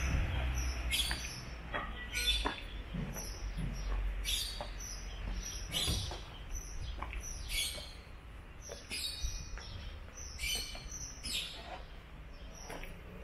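Small birds chirping: many short, high chirps repeating every half second or so, over a low steady rumble.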